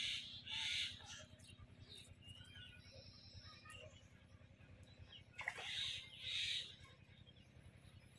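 A bird calling: a pair of short, hoarse calls right at the start and another pair about five and a half seconds later, over a faint steady low hum.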